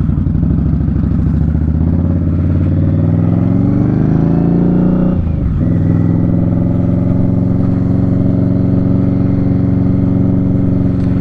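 Indian Scout Bobber Twenty's V-twin engine through Vance & Hines slip-on exhausts, accelerating with rising pitch for a few seconds. The pitch drops sharply at an upshift about five seconds in, and the engine then pulls steadily at a constant pitch.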